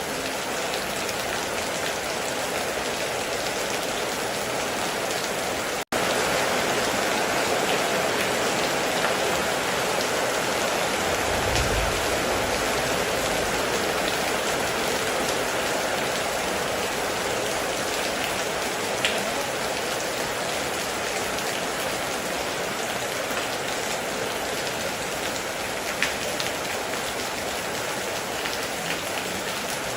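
Heavy rain pouring steadily, with a few sharper drop hits. A short low rumble comes near the middle, and the sound cuts out for an instant about six seconds in.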